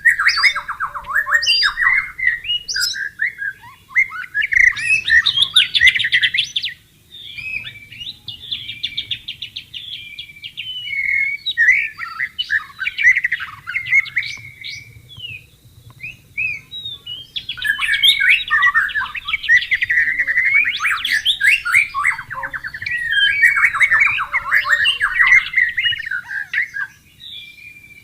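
White-rumped shama singing a long, varied song of rapid trills and whistled phrases, with a couple of brief pauses, over a faint low rush of flowing water.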